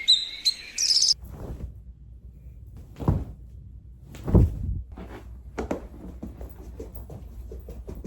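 Bird-like chirps for about a second, then a low steady rumble with scattered light knocks and two heavier thuds, about three and four and a half seconds in.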